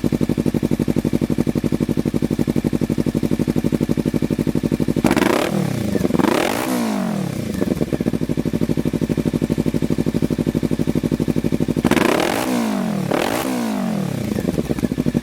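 Kawasaki Ninja 300's parallel-twin engine through a Two Brothers Racing M-2 carbon-fibre slip-on exhaust, idling with an even pulsing beat. The throttle is blipped twice in quick succession about five seconds in and twice again about twelve seconds in, the revs rising and dropping back to idle each time.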